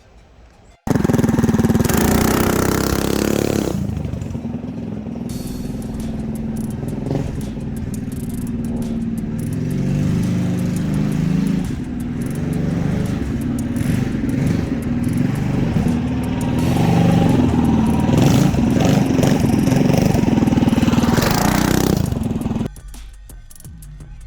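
Mini bike's Predator 212 Ghost single-cylinder engine running and revving, its pitch rising and falling. It starts abruptly about a second in and cuts off near the end.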